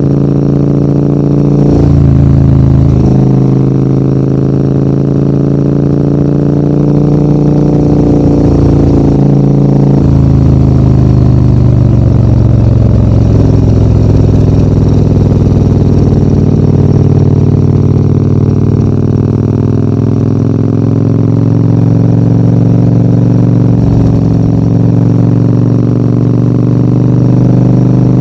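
Large adventure motorcycle's engine running under load on an uphill mountain road, heard from the bike. The revs change about two seconds in and again around ten seconds in, then hold fairly steady.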